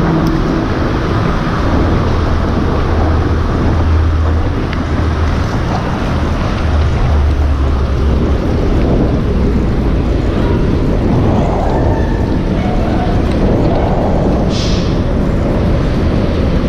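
Heavy wind noise on the microphone of a mountain bike descending a road, over the low drone of motor traffic close by. A short hiss comes near the end.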